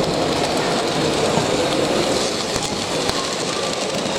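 Steady noise of a train running on the rails, a continuous rumble with faint clicks.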